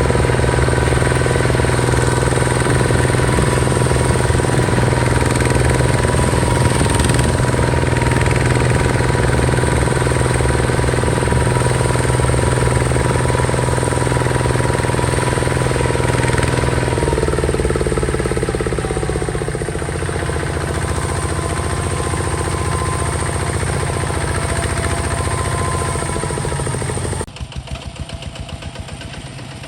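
Diesel engine of a Hinota HG Gold 155 DI hand tractor running steadily and loudly while hauling a load of soil. About two-thirds through, its pitch eases down. Near the end it drops suddenly to a quieter, chugging run.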